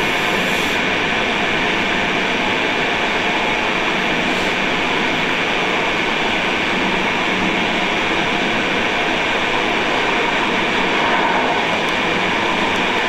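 Train running steadily along the track, heard from the driver's cab: an even, unbroken running noise of wheels on rail with no clear rail-joint clicks.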